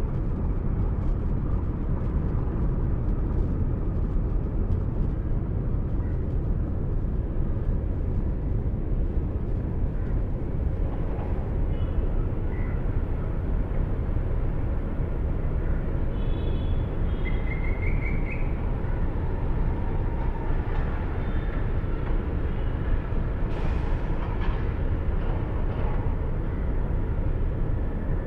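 Car driving on the road: steady low road and engine rumble picked up by a dashcam inside the car. Some short high beeps come through a little past the middle.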